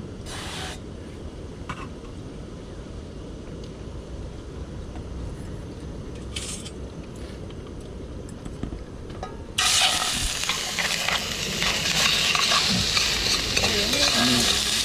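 Low steady background rumble, then from about ten seconds in food suddenly starts sizzling loudly in a hot pan.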